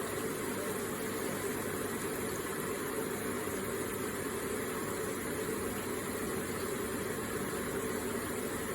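Electric water feature with water trickling and splashing in a steady, even flow.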